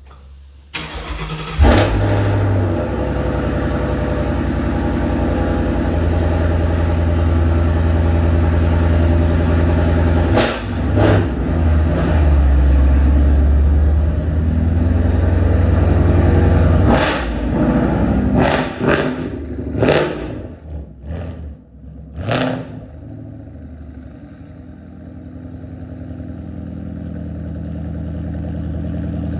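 Ford Mustang GT V8 with Roush axle-back mufflers and a Mishimoto H-pipe cold-starting: a brief crank, a loud flare as it catches, then a steady fast cold idle that later drops to a lower, quieter idle. A few sharp knocks or clicks come in the second half.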